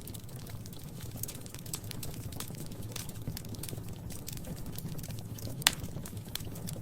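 Wood fire crackling in a fireplace: irregular small snaps over a steady low rumble of flames, with one louder pop near the end.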